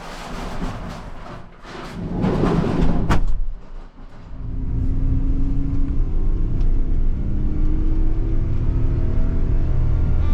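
Kei van driving, heard from inside the cabin: a steady low engine and road rumble, after a few seconds of louder, uneven rushing noise.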